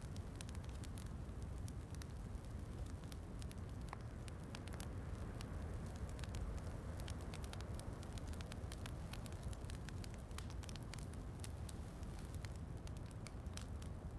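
Fireplace wood fire crackling, with many small sharp pops scattered irregularly over a steady low rumble of rain.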